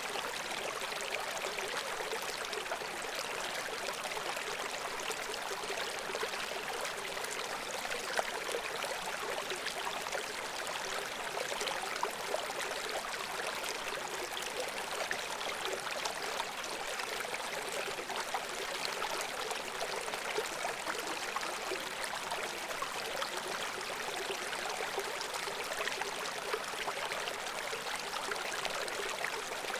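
Shallow brook flowing over stones: a steady babbling with small splashes and trickles.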